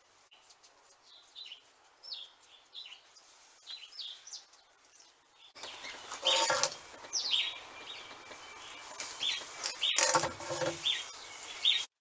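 Small birds chirping, a string of short, high, falling chirps that gets louder about halfway through, with two brief knocks standing out above them.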